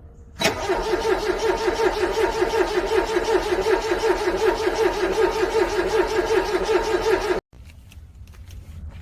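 Cold car engine cranking on its starter motor, a steady rhythmic whirr that pulses with each compression stroke, without catching. It starts suddenly and cuts off abruptly after about seven seconds.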